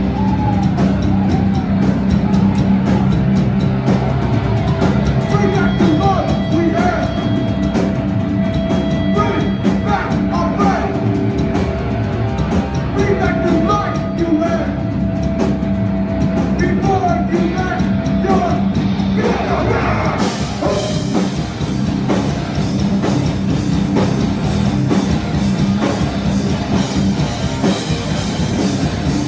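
Live hardcore punk band playing loud: distorted guitars and drums with shouted vocals. The sound grows brighter about twenty seconds in.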